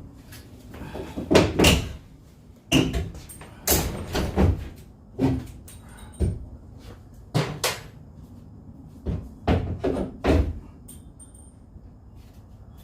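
Irregular heavy knocks and bangs on wooden framing as it is struck and pulled apart in demolition. About a dozen blows, some in quick pairs, die out near the end.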